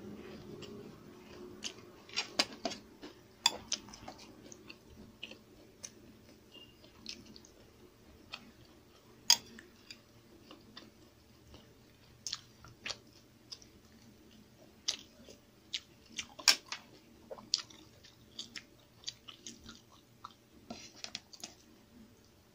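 Close-up mukbang eating sounds: a person chewing mouthfuls of rice and stir-fried vegetables (chopsuey) eaten by hand, with wet mouth smacks and irregular sharp clicks, a few much louder than the rest.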